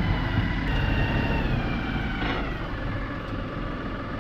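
A vehicle engine running steadily, with a faint high whine over the low rumble.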